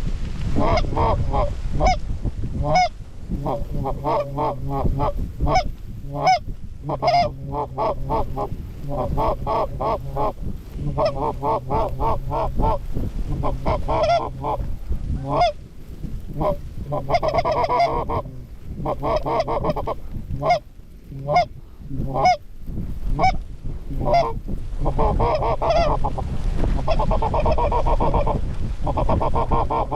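Geese honking and clucking in fast, near-continuous runs, with a few short breaks, over a low steady rumble of wind.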